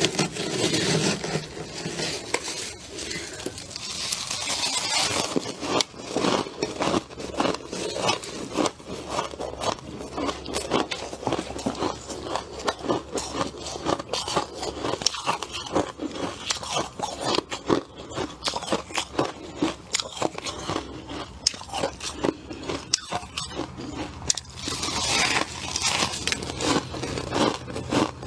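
A person biting and chewing mouthfuls of freezer frost: a dense run of crisp crunches, with hissier stretches at the start and again near the end.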